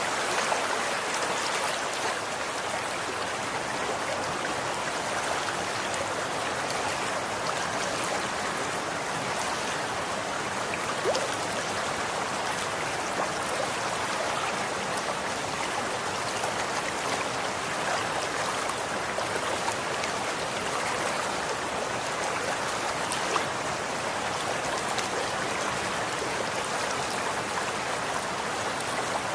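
Running water flowing steadily, a continuous rushing with small irregular splashes.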